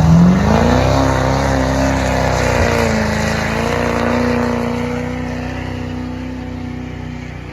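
A pulling vehicle's engine run hard under load on the sled: the pitch climbs sharply at the start, dips briefly about three seconds in, then holds steady while the sound slowly fades.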